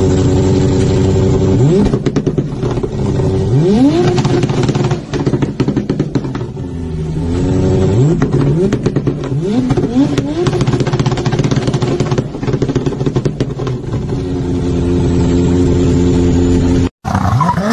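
Car engine revved in a series of short blips, each rising in pitch and then falling back to idle, with sharp crackles and pops from the exhaust between the revs.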